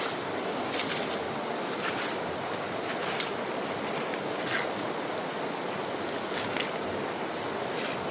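Steady rush of the Buffalo River flowing past, with a few short sharp sounds.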